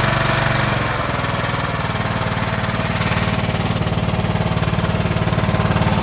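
Kohler Courage 20 engine of a Troy-Bilt riding lawn mower running steadily, easing slightly in level about a second in. The owner thinks it doesn't sound right and suspects a valve issue.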